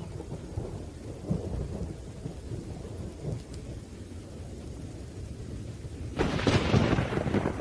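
Thunder rumbling low and crackling over rain, with a sudden louder, sharper thunderclap about six seconds in that fades over a second or so.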